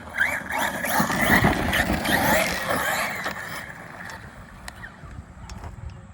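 Arrma Notorious 6S RC car's brushless electric motor whining up as the car accelerates over dirt, its tyres throwing dirt. It is loudest in the first three seconds, then fades over the next two as the car moves away.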